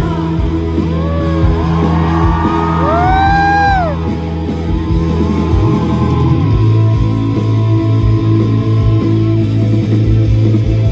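Live rock band music played loud, with heavy bass and drums. A lead line slides up and down about two to four seconds in, then holds one long note.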